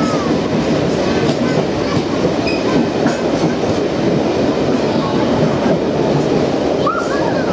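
A train running along the track: a steady rumble and rattle of wheels on rails, with a few short high squeaks now and then.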